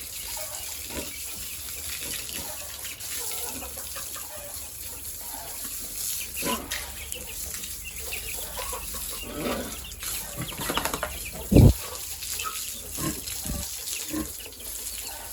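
Chickens clucking over a steady hiss like running water, with scattered short knocks and one loud low thump a little past two-thirds of the way through.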